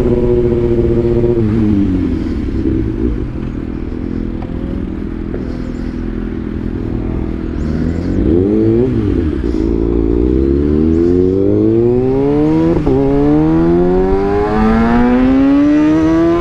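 Kawasaki ZX6R 636's inline-four engine through a catalyst-delete SC-Project link-pipe exhaust. The engine note falls about two seconds in and stays low, rises and falls briefly near the middle, then climbs steadily in pitch as it accelerates for the last several seconds.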